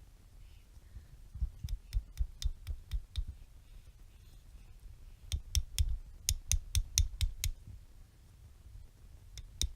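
Rapid runs of sharp wooden knocks: a tough log being pounded with another log to split it. The strikes come about three to four a second, in two runs with a pause between, and a third run starts near the end.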